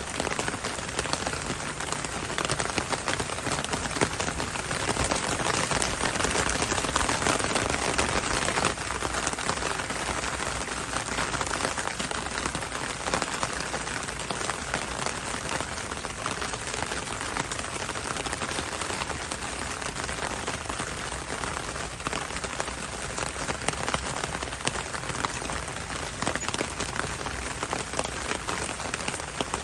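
Heavy rain falling steadily on a surface, a dense hiss of countless drops with fine spatters throughout.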